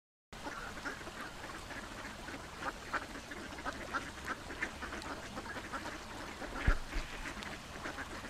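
Ducks calling: a run of short calls, several a second, with one brief louder thump about two-thirds of the way through.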